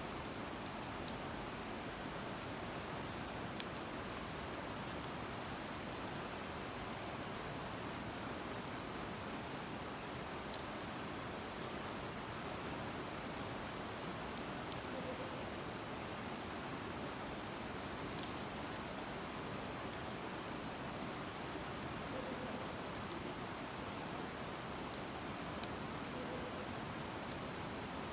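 Wood fire burning in a Uniflame fire stand, with a few sharp crackles over a steady rushing hiss.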